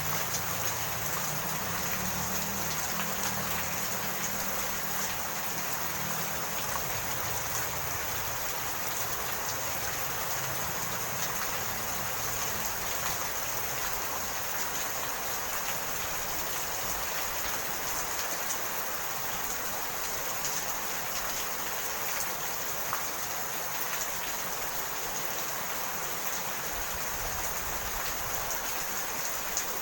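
Steady rain: a dense, even hiss of falling drops. A low rumble underneath fades out over the first several seconds.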